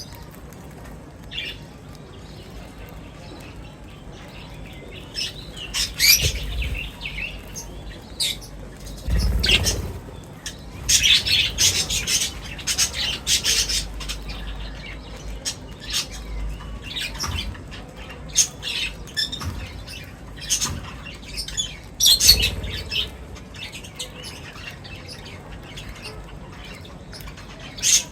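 Small birds feeding, with many short chirps and squawks coming irregularly and overlapping, and a few low thumps among them.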